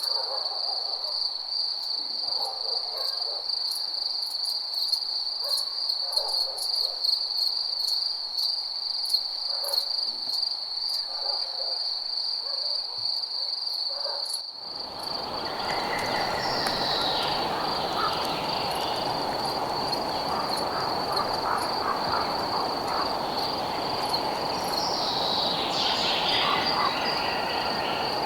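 Night nature soundscape dominated by a steady, high-pitched cricket trill. In the first half a few scattered low calls sound under it. About halfway through the background changes abruptly to a dense, even night chorus beneath the same trill, with a couple of falling high calls.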